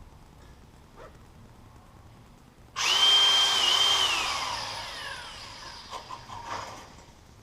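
Angle grinder switched on: it spins up at once to a steady high whine for about a second, then is released and winds down with a falling whine. A few light knocks follow near the end.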